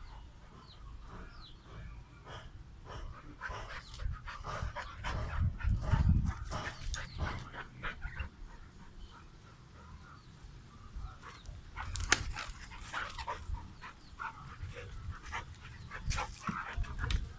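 A dog panting and scuffling as it tussles with a rooster, with a few short barks. The noise comes in busy bursts of quick scrapes and knocks, with a quieter stretch in the middle.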